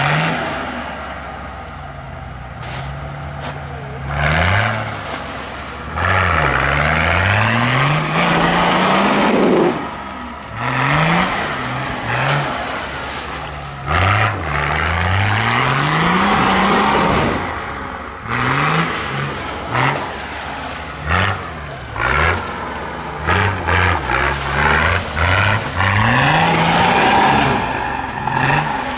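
Off-road 4x4 engine revved up and down over and over in quick throttle bursts, some short and some held for a second or two, with a loud rushing noise over it.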